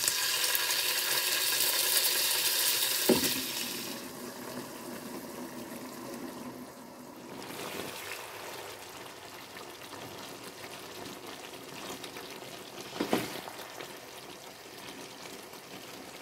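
Raw chicken strips dropped into hot oil with garlic and shallots in a non-stick wok, sizzling loudly for about four seconds, then a softer sizzle as the chicken is stirred in its creamy sauce with a spatula. A sharp knock comes about three seconds in and another near thirteen seconds.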